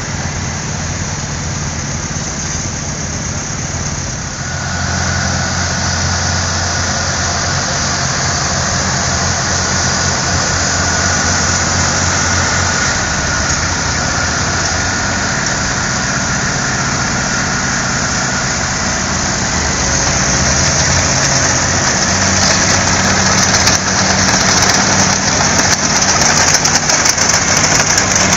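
Antique tractor engines running steadily as they pass in a parade. The sound gets louder about four seconds in and again near the end.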